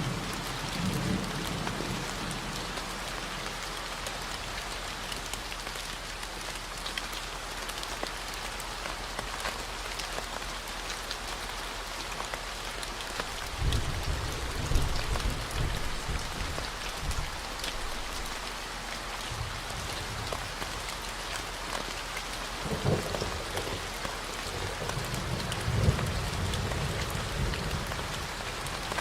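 Steady rain falling, with low rolls of thunder that swell about halfway through and twice more near the end. Under it runs a constant 40 Hz tone.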